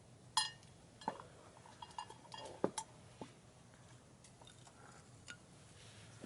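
Metal camp cookware clinking and knocking as it is handled: a ringing clink about half a second in, then a scatter of lighter taps and clinks.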